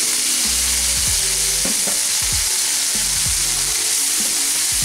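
Wet spice paste sizzling in hot mustard oil with onions and peas in a kadai, a steady hiss, while a spatula stirs it through the pan.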